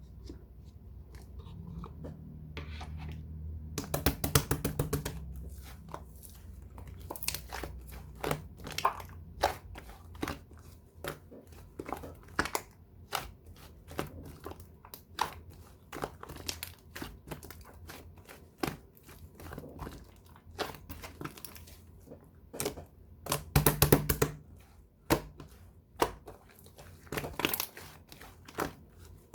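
Toy slime being squeezed, stretched and poked by hand, giving irregular sharp clicking and popping sounds about once or twice a second, with two denser bursts of crackling about four seconds in and again near 24 seconds.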